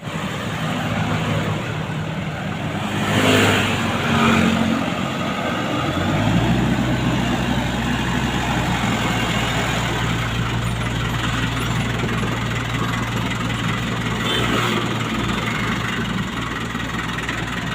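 Diesel truck engine running, with two brief louder revs about three and four seconds in, then settling into a steady low drone from about six seconds in.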